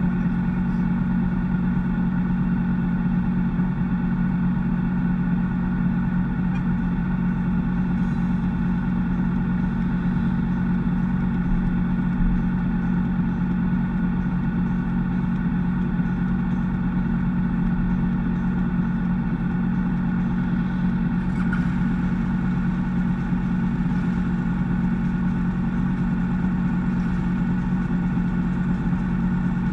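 BMW GS adventure motorcycle's boxer-twin engine idling steadily at a constant pitch, heard through a camera mounted on the bike.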